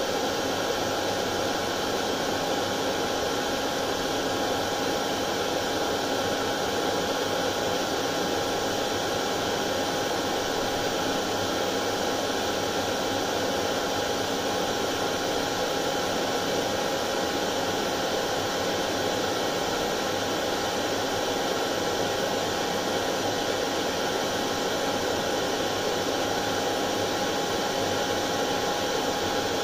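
Hair dryer running steadily: an even blowing hiss with a constant whine in it, unchanging throughout.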